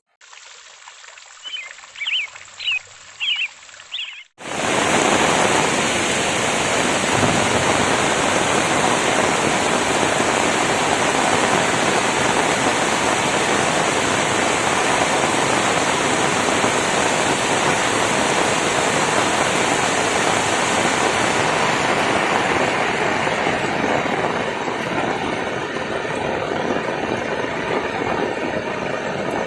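Heavy rain pouring steadily, beginning abruptly about four seconds in. Before it there is a quieter stretch with a few short, high chirps.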